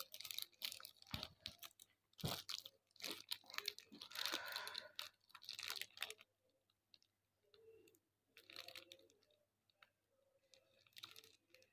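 Irregular crinkling and scratching of a sticker paper sheet being handled in a number-plate sticker machine. The sounds are busy at first and then thin to sparse, faint scratches about halfway through.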